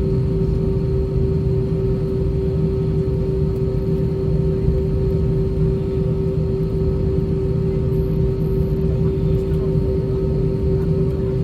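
Cabin noise of an Airbus A320-232 taxiing on its IAE V2500 engines at idle: a steady hum with a strong constant drone over a low rumble.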